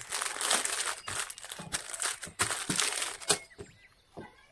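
Dense crinkling, crackling rustle that stops about three seconds in, leaving it much quieter.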